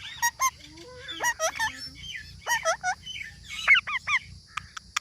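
A pet parrot calling in short, hooked squawks, several in a row with the loudest three in quick succession near the end, mixed with sharp clicks.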